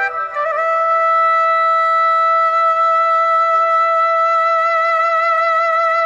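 Background music: a flute-like wind instrument holds one long, steady note, after a quick step up in pitch near the start.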